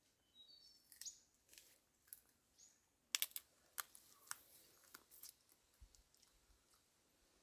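Faint high bird chirps, a quick rising run about half a second in, with scattered sharp clicks and taps, the loudest a cluster about three seconds in.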